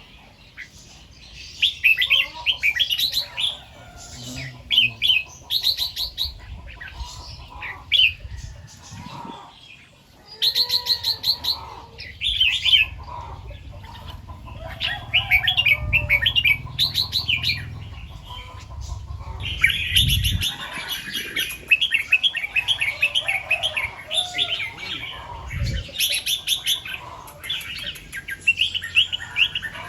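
Red-whiskered bulbul singing repeated bursts of quick warbled phrases with short pauses between them, and a longer unbroken run of song about two-thirds of the way through.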